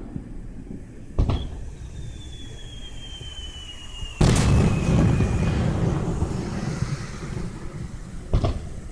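Fireworks going off: a sharp bang about a second in, then a thin whistle that falls slowly in pitch for about four seconds. Partway through the whistle comes the loudest bang, which rumbles on for several seconds, and another sharp bang comes near the end.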